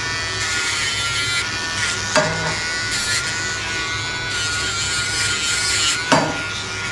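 A Dremel rotary nail grinder running with a steady high whine as it files a dog's back nails.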